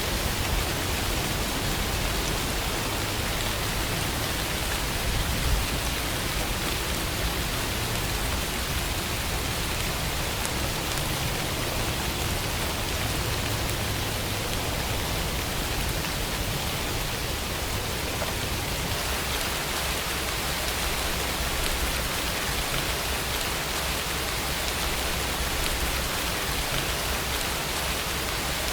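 Steady rainfall, an even, unbroken hiss of rain with no single drops standing out.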